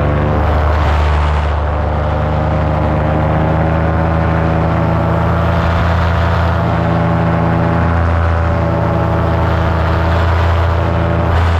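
Paramotor engine and propeller running steadily under power, its pitch rising slightly in the first couple of seconds and then holding.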